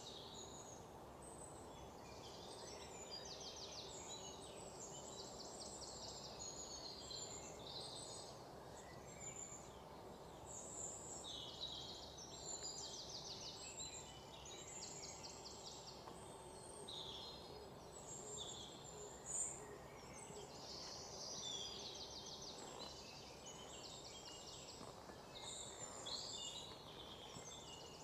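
Faint bird chirps and quick high trills, repeated every second or two over a low steady background hiss.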